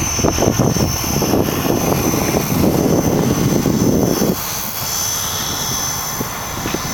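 O.S. 55AX two-stroke glow engine of an RC Pilatus PC-9 model airplane running with a steady high whine, driving its propeller. A heavy low rumble under it eases off about four seconds in.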